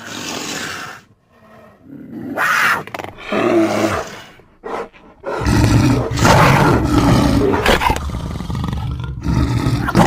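Designed creature vocalisation for the Vulpimancer (Wildmutt), made from big-cat and bear recordings: a short growl, then several separate snarls and roars with brief gaps, and from about halfway a long, loud run of deep roaring.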